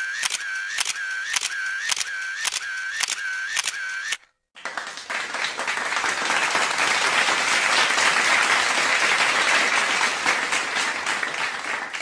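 Camera shutter clicks in a steady run, about two a second, each with a short whine. After a brief pause, about four and a half seconds in, an audience starts applauding; the clapping builds and then fades near the end.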